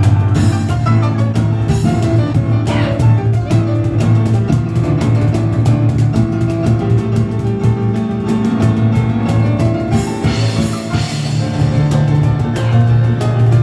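Live instrumental performance by a piano and cajon duo: fast, dense piano playing over driving cajon hits.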